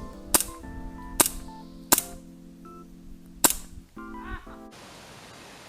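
Four sharp cracks of an airsoft gun firing, spaced about a second apart, over held music chords that cut off about three-quarters of the way through.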